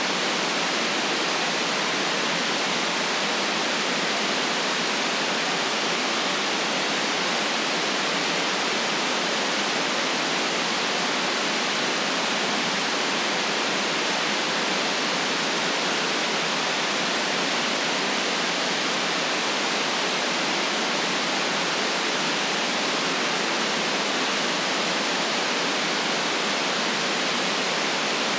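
Steady, unchanging white noise played as a relaxation sound, with no deep bass and nothing above the upper treble.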